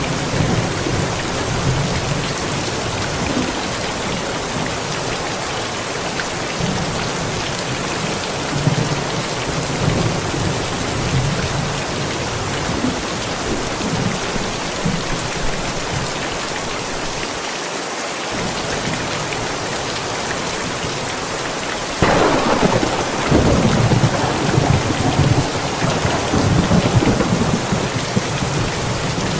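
Steady heavy rain with low rolls of thunder. About three-quarters of the way through, a louder thunderclap breaks in and rumbles on to the end.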